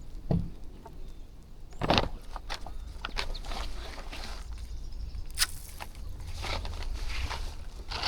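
A flock of birds feeding on scattered rice: irregular pecking and scuffling clicks with short chirps, over a steady low rumble.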